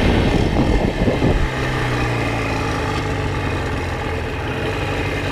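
1994 Jawa 350 two-stroke twin motorcycle engine running: louder and uneven for the first second and a half, then settling into a steady low idle.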